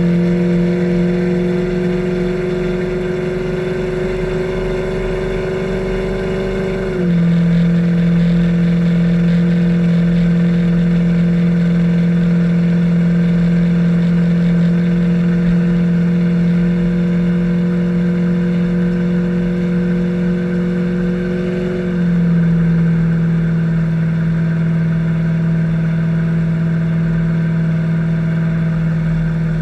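2000 Camaro SS V8 exhaust through true duals with Flowmaster single-chamber mufflers, running at a steady engine speed with a deep, even drone. The note steps slightly in pitch and gets a little louder about 7 seconds in and again about 22 seconds in.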